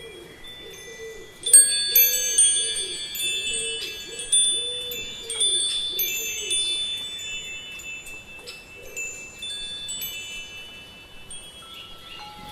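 Wind chime ringing: a burst of clear, high ringing tones struck together about a second and a half in, then fading, with scattered single strikes after.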